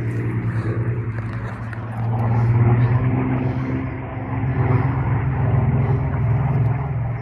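Piston engines of a low-flying Avro Lancaster bomber: a deep, steady engine drone that swells about two seconds in and again a little later as the aircraft passes.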